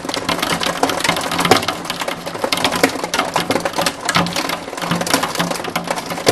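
Hail falling and pelting a hard surface: a loud, dense, fast clatter of countless small hits.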